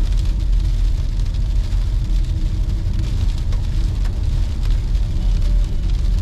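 Car driving steadily, a continuous low rumble of engine and road noise with tyre hiss over it.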